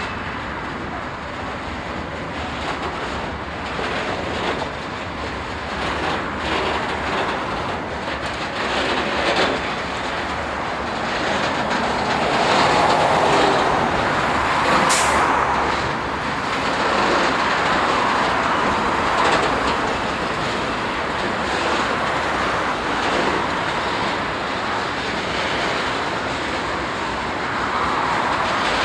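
A train rolling past with wheels clicking over the rail joints, and one sharp metallic click about halfway through.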